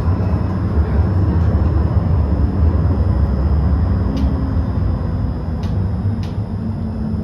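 Tram running along its rails: a steady low rumble with a few faint clicks near the end.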